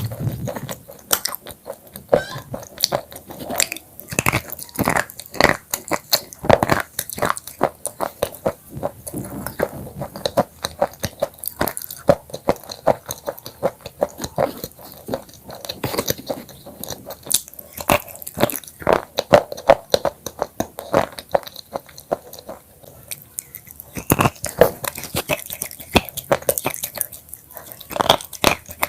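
Broken black chips crunching close to the microphone: a dense, irregular run of sharp crisp crunches, thinning briefly before a fresh flurry near the end.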